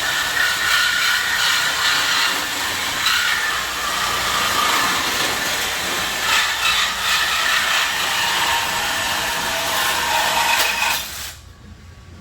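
A power tool grinding or cutting through steel exhaust pipe during a muffler delete: a loud, harsh hissing grind with a wavering whine, which cuts off about eleven seconds in.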